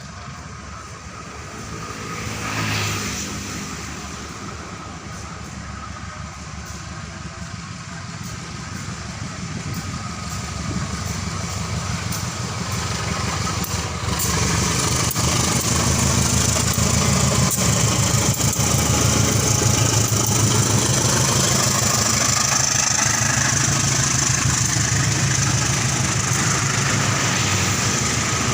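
Diesel locomotive-hauled train approaching: the locomotive's engine drone grows steadily louder, and from about halfway the rushing noise of the wheels on the rails builds.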